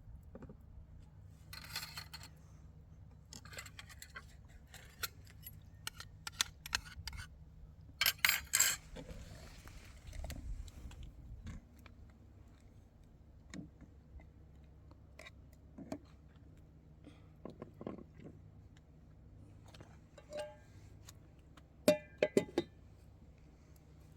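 Small hard objects being handled: scattered clinks, rattles and scrapes, some in quick runs, the loudest rattle about eight seconds in, over a low steady hum.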